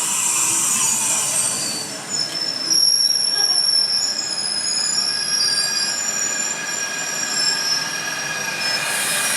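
A train squealing on the rails as it rolls slowly, with several high metallic tones wavering and overlapping over a steady rumble. A hiss at first, the squeal setting in about two seconds in.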